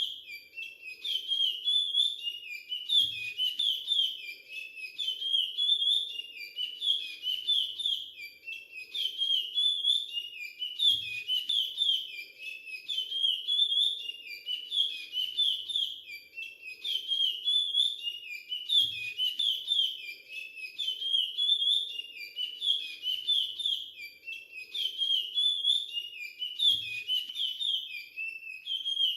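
Young male chestnut-bellied seed finch (curió), still in brown juvenile plumage, singing its whistled song in the Timbira Virado Clássico dialect. It repeats the phrase over and over, about one every two seconds.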